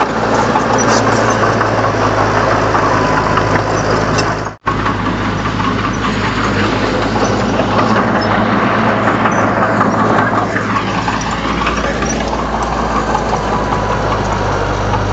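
Komatsu D31 bulldozer's diesel engine running steadily, with the rattle of the machine working over it. The sound cuts out for an instant about four and a half seconds in.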